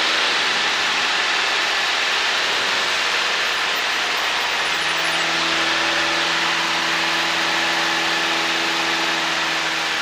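Cessna 152's four-cylinder Lycoming engine running steadily, with a loud rush of airflow, heard from inside the cockpit. A steady low hum comes up about five seconds in.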